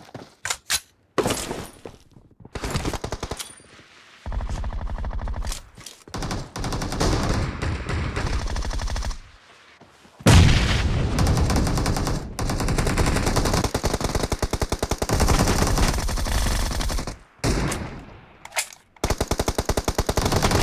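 Video-game automatic gunfire: rapid-fire bursts separated by short pauses, the longest running about seven seconds from about ten seconds in.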